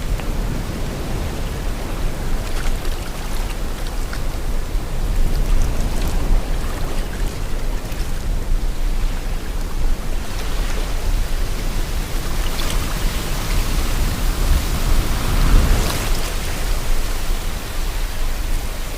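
Sea water and wind: a steady rushing noise with a deep low rumble, swelling briefly about three quarters of the way through.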